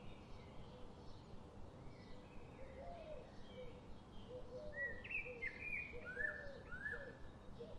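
Wild songbirds chirping and calling over a faint background hiss, with several louder, clear falling whistled notes from about five seconds in. Short, low notes repeat underneath through the second half.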